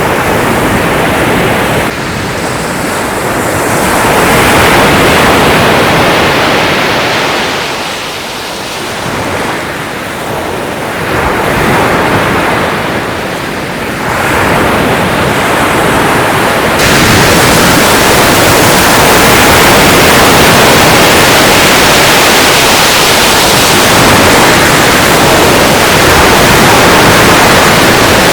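Sea waves rushing in and washing back, swelling and easing in surges every few seconds. About two-thirds of the way through the sound changes abruptly to a steady, loud hiss.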